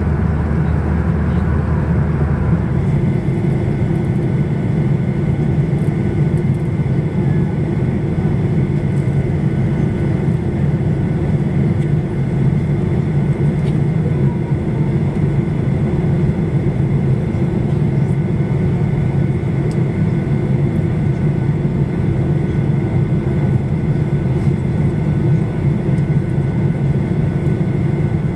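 Steady jet roar in the cabin of a Boeing 737-800 in flight, from its CFM56-7B turbofan engines and the airflow, with a few faint steady whines running through it. About three seconds in, the sound changes abruptly, losing its deepest rumble, then runs on evenly.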